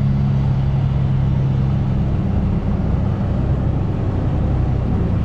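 Heavy truck's diesel engine with a loud exhaust running steadily. About two seconds in, its even note breaks into a rougher, changing rumble.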